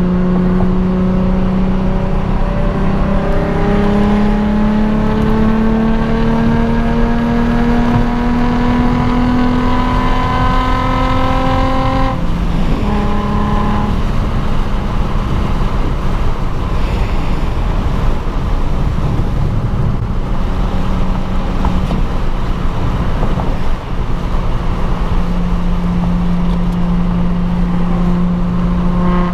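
Nissan 350Z's 3.5-litre V6 pulling in one gear, its pitch rising slowly for about twelve seconds, then dropping sharply with an upshift and settling to a steady cruise. Steady road noise from the wet freeway runs underneath.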